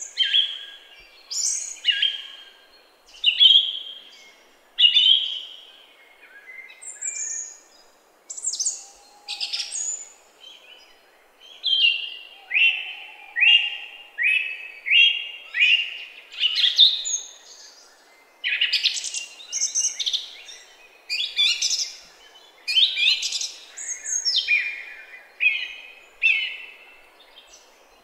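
A bird calling over and over: short chirps, each sweeping steeply down in pitch, repeated every second or so and coming more quickly in the second half.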